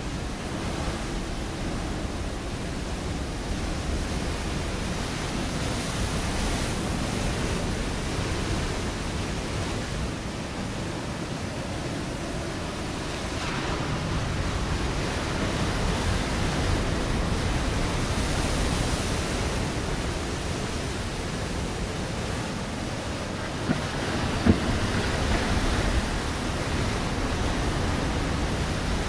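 Ocean waves breaking on a rocky shore: a continuous rushing wash of surf that swells and eases every several seconds, with one brief sharp knock a little after two-thirds of the way through.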